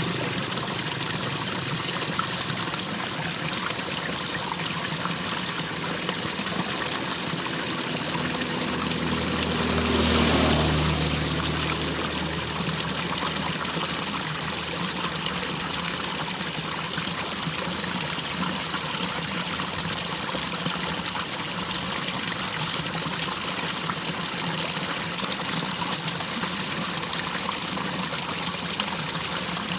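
Steady rush of running water in a drainage ditch in the rain, with a brief louder swell about ten seconds in.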